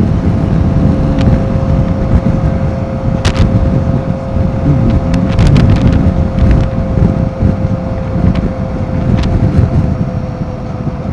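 Royal Enfield Himalayan 450's single-cylinder engine running while riding, with wind buffeting the microphone and a steady thin whine over the rumble.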